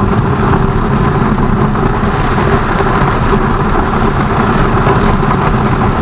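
BMW R 1200 GS boxer-twin motorcycle engine running steadily with a low rumble, its pitch holding level.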